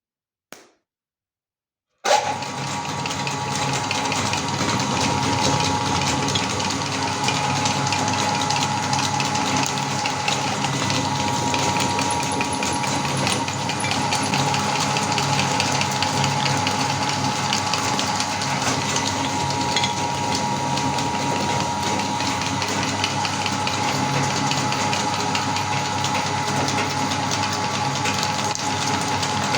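Electric meat grinder switched on about two seconds in, its motor running with a steady whine while it crunches and crackles through cookies.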